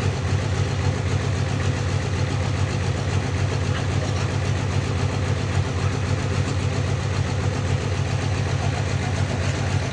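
Sawmill engine running steadily, with an even low-pitched rapid pulse and no change in speed.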